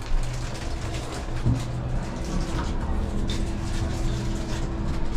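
Passenger elevator car riding up: a steady hum over a low rumble, with a light knock at the start and another about a second and a half in.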